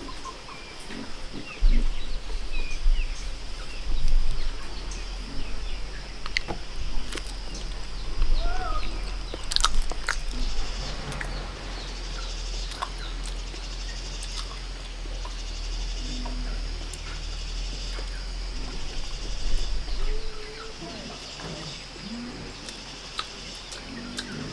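Outdoor farm ambience: small birds chirping over a steady high insect drone. A low rumble comes in about two seconds in and stops near the end, and there are a few sharp knocks in the middle.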